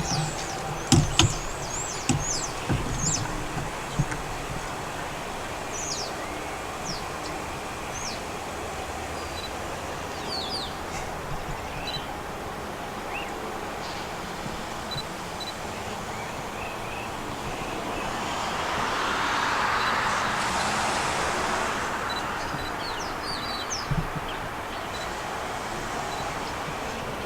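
Small birds chirping in short, falling calls over steady outdoor background noise. A few sharp knocks come in the first few seconds, and a broad rush swells and fades about three quarters of the way through.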